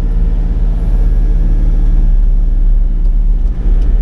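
Sany 35 mini excavator's diesel engine running steadily with a low, even hum.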